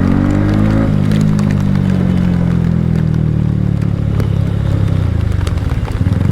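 Motorcycle engine running under way, its pitch climbing in the first second, holding, then easing off near the end, with scattered sharp ticks of rain hitting the camera.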